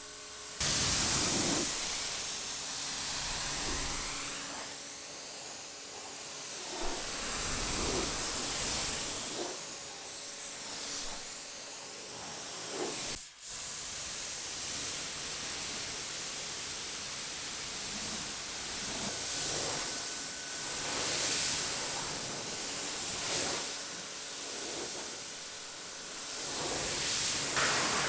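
A car-wash spray wand hissing steadily against the car, swelling and fading as it sweeps back and forth, with a brief break about 13 seconds in.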